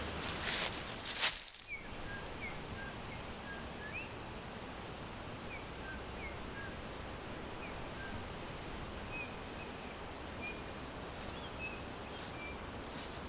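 Small birds giving short, high chirps, scattered and repeated, over a steady background hiss of forest noise. In the first second or so there is a burst of rustling with one sharp crackle.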